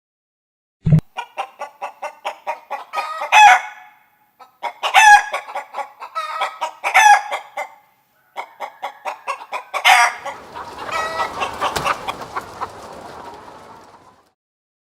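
Chickens clucking in quick runs of short notes, each run building to a louder drawn-out cackle, about four times. Near the end several birds call over one another for a few seconds, then the sound stops.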